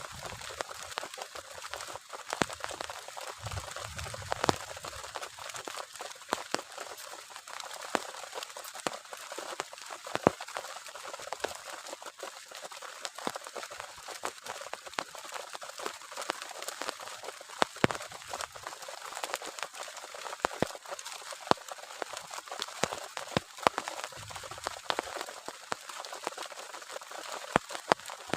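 Heavy rain falling steadily, a constant hiss with many sharp drops tapping close by.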